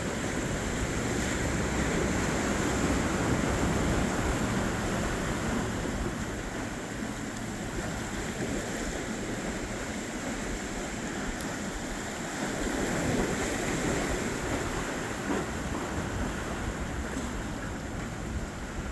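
Ocean surf washing onto the beach, a steady rushing noise that swells a couple of times as waves break, with wind buffeting the microphone.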